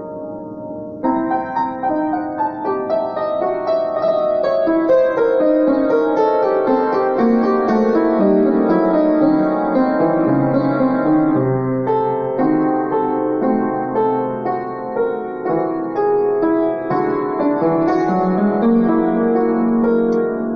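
Piano improvisation in an impressionistic style built on whole-tone and symmetric scales, many notes ringing together. It is quieter for the first second, then a fuller, louder passage begins.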